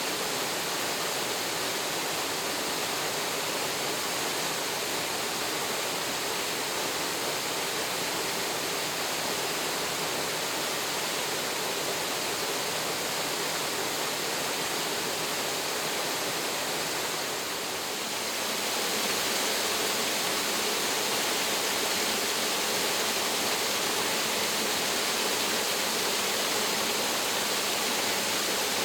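Low waterfall rushing steadily, water pouring over rocks at several angles into the pool below. A little over halfway through the sound dips briefly and then comes back slightly louder.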